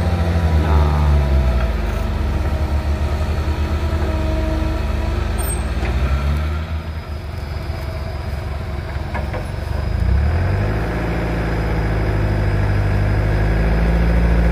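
Heavy diesel engines of an excavator pushing a truck, running under load. The revs drop and rise a few times, then hold steady and louder for the last few seconds.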